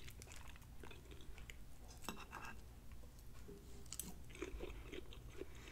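A person faintly chewing a bite of glazed pork chop, with small wet clicks and smacks of the mouth.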